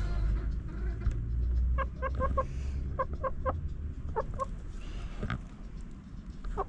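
Chickens clucking, in short runs of three or four quick clucks, over a low rumble for the first few seconds, with a single sharp click near the end.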